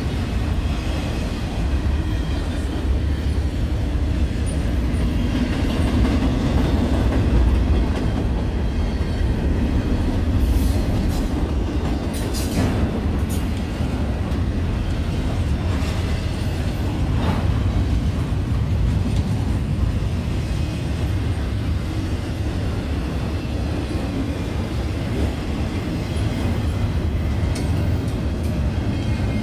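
Union Pacific double-stack container train rolling past close by: a steady rumble of steel wheels on rail with clacking as the well cars pass, and a few sharp metallic noises about halfway through.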